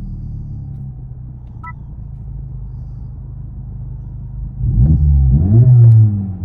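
2024 Honda Civic Type R's 2.0 L turbocharged four-cylinder, with an AWE cat-back exhaust, heard from inside the cabin. It idles steadily, then near the end is revved and the pitch climbs and falls back.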